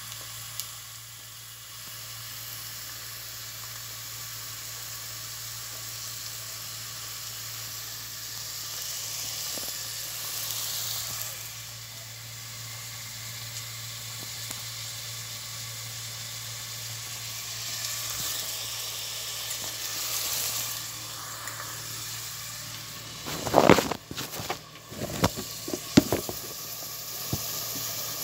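Food sizzling steadily as it fries in oil in a cooking pot. A few loud knocks and clatters come near the end.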